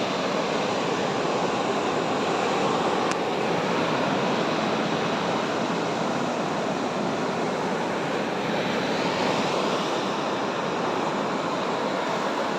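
Sea surf washing onto a beach: a steady rushing noise that swells gently, with a faint tick about three seconds in.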